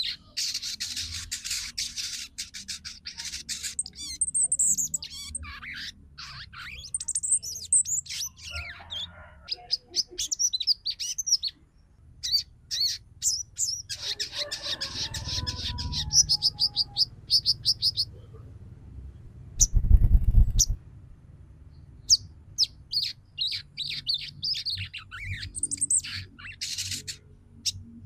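Female ruby-cheeked sunbird (sogon) chattering: quick runs of high, thin twittering chirps in bursts with short pauses. About twenty seconds in, a brief low rumble is the loudest thing heard.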